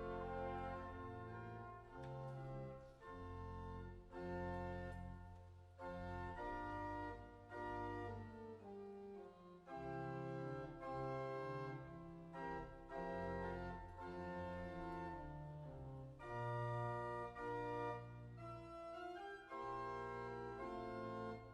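Organ playing slow sustained chords over a moving bass line, the chords changing every second or two.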